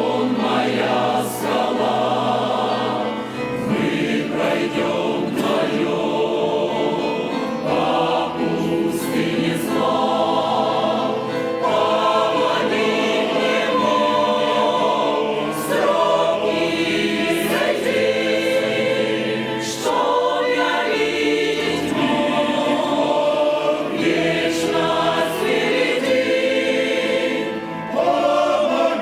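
Church choir singing a hymn, in phrases with brief breaks between them.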